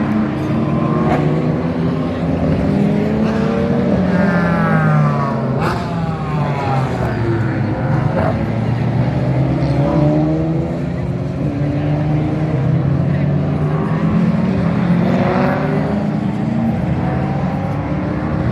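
Several GT race cars going past one after another, their engine notes rising and falling in pitch as they accelerate, shift and brake. There is a sharp crack about six seconds in.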